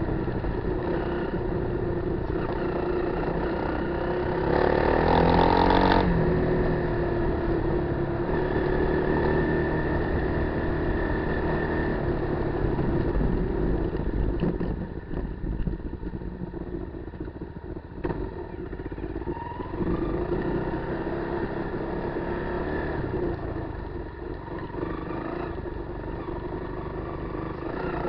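Kawasaki KLR250's single-cylinder four-stroke engine running under way off road, with a loud burst of revs about five seconds in. Around the middle the engine drops quieter for a few seconds as the throttle eases, then picks up and runs on steadily.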